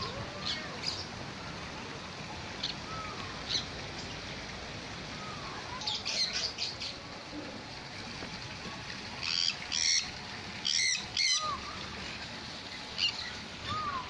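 Caged birds chirping and squawking: short, shrill calls come in scattered bursts, clustering in the second half, over a steady background hiss.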